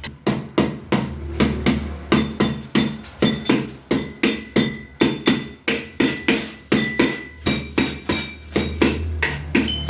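Sharp strikes repeating evenly, about three a second, some followed by a brief ringing tone, over a low steady hum.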